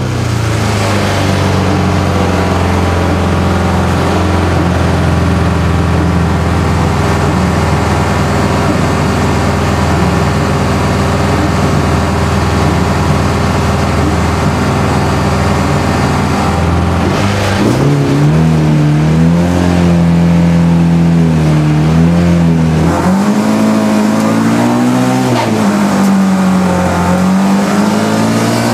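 Race car engine heard from inside the cabin, running steadily while the car waits on the grid. About eighteen seconds in it revs up as the car pulls away at the race start, its pitch climbing and dropping several times as it accelerates through the gears.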